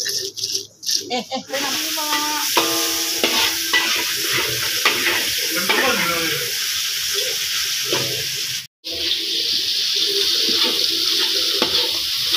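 Sliced onion frying in hot oil in a metal wok, sizzling steadily, while a metal spoon stirs and scrapes against the wok. The sound cuts out for a moment about nine seconds in.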